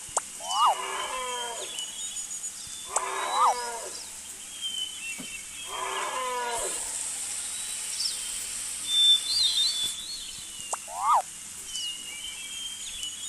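An animal calling over and over, a short call with several tones that falls in pitch, about every three seconds, with faint high bird chirps in between.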